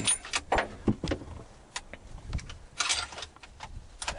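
Handling noise: a run of short knocks, clicks and rustles, with a longer rustle about three seconds in.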